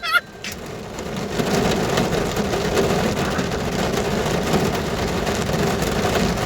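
Steady rain falling on a car roof, heard from inside the car as an even hiss and patter.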